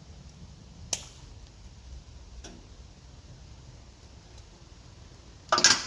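Small hand-tool and wire handling sounds: a sharp click about a second in, a fainter click about halfway, and a short, louder scrape or rustle near the end, as wire is cut and heat shrink tubing is handled.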